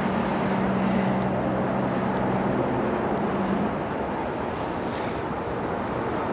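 Freight truck's diesel engine running with a steady low hum and heavy rushing noise; the hum drops away about three and a half seconds in and the sound eases a little.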